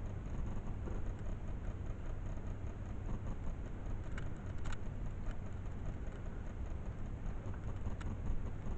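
Steady low rumble of a moving vehicle, with a few light clicks about halfway through and near the end.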